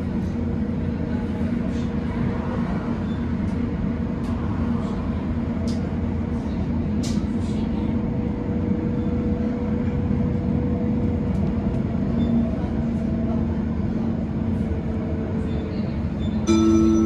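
Tram running, heard from inside the car: a steady rumble of wheels on rail with a motor hum and scattered clicks. Near the end a short chime sounds.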